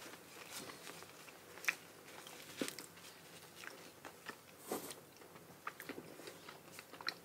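People eating durian flesh: faint, scattered mouth clicks and smacks of chewing, a few slightly louder than the rest.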